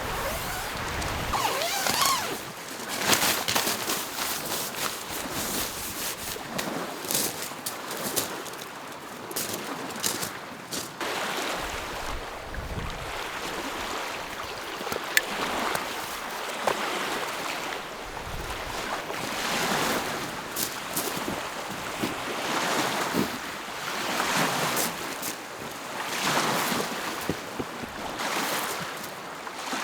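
Small lake waves lapping and washing on the shore, swelling and ebbing every couple of seconds, with scattered sharp clicks through it.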